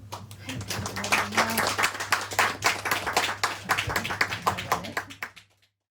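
A small audience clapping after a song ends, over a fading low held note from the band. The clapping cuts off abruptly near the end.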